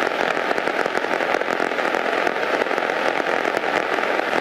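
Steady cabin noise of a single-engine Cessna lining up on the runway with its engine at low power: an even, dense hiss with a fine crackle.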